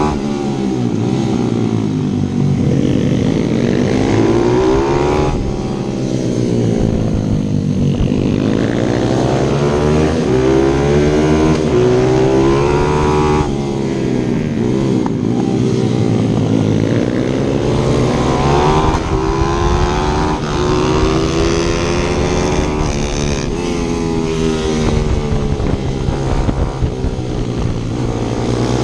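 A 155 cc pit bike's engine heard on board from the rider's chest, revving up hard and falling off again and again as it accelerates and brakes through the corners.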